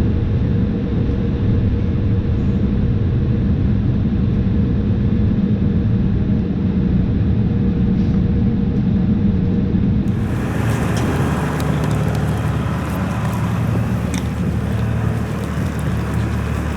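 Steady rumble of a Boeing 787-8 airliner heard from inside the cabin, with a low hum. About ten seconds in, the sound changes to a brighter rumble with scattered crackles and ticks.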